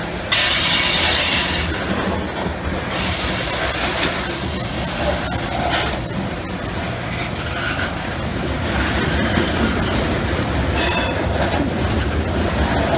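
Covered hopper cars of a CSX freight train rolling past close by, with a steady rumble and clatter of wheels on the rails. A loud high wheel squeal starts right away and lasts a couple of seconds, and a shorter squeal comes near the end.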